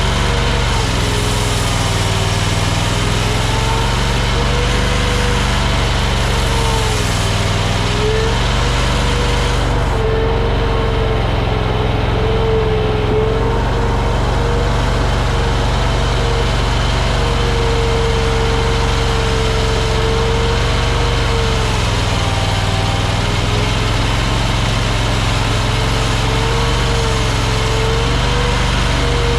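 AGT LRT23 mini skid steer running steadily under a loud engine drone, with a whine that wavers up and down in pitch as the machine works.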